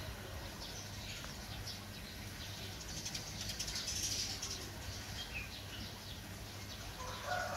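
Outdoor ambience with small birds chirping in short scattered calls over a low steady hum; a louder mid-pitched sound begins near the end.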